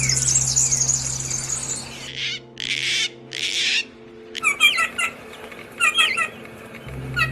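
Small songbirds calling: a fast high trill for the first two seconds, then two short harsh noisy calls, then groups of short repeated chirps.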